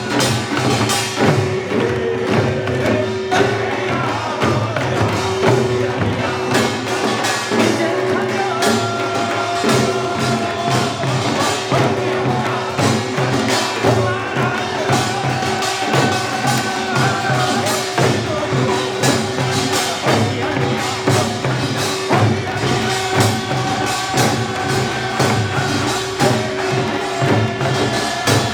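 Korean pungmul folk ensemble playing: dense, fast gong and drum percussion with a sustained melodic line held over it.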